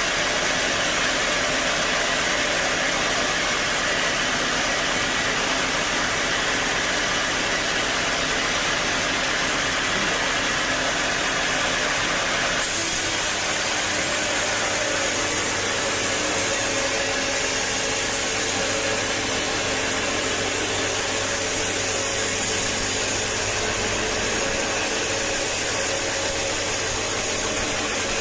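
Sawmill machinery running with a steady, continuous mechanical drone. About halfway through, the sound changes abruptly to a brighter mix.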